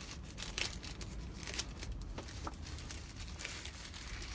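Plastic packaging bag crinkling as it is handled and pulled open, with irregular sharp crackles.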